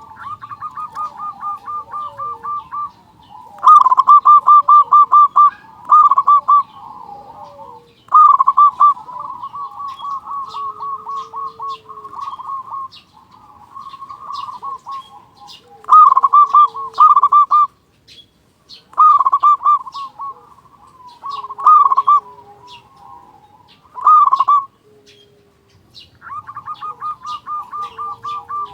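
Zebra dove (perkutut) cooing: its rapid staccato call, a quick run of pulses at about six a second, repeated over and over with short pauses between runs. Fainter high chirps sound in the background.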